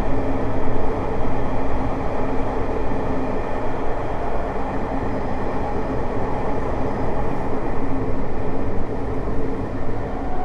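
Tokyo Metro 05 series subway car running at a steady speed, heard from inside the car: a continuous rumble of wheels on rail with a steady hum running through it.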